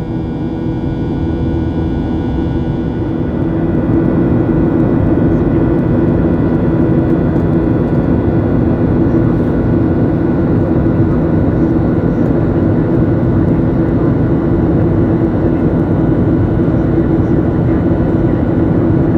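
Boeing 737-800's CFM56-7B turbofan engines heard from inside the cabin: a steady rumble and rush with a droning whine. The sound grows louder over the first few seconds, then holds steady.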